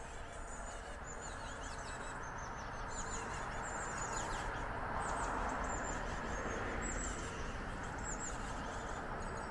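Small birds chirping, many short high notes that slide downward and repeat several times a second, over a steady rushing background noise that grows a little louder toward the middle.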